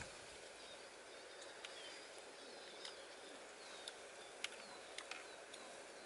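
Quiet outdoor background with faint bird chirps, short falling calls repeated about once a second, and a few sharp isolated clicks, the loudest about four and a half seconds in.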